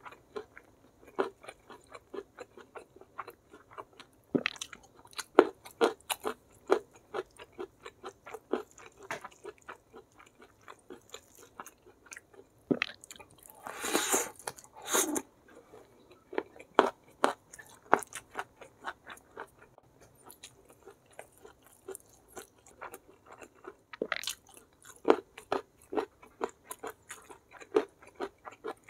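Close-miked chewing of a mouthful of food: a steady run of wet smacks and small crunches, with a louder, longer noisy stretch about halfway through.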